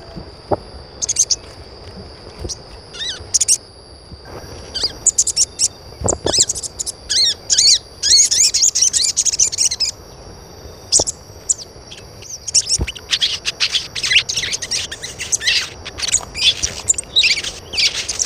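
Birds chirping: many short, high chirps, densest about eight seconds in and again through the last few seconds, over a faint, steady, thin high tone.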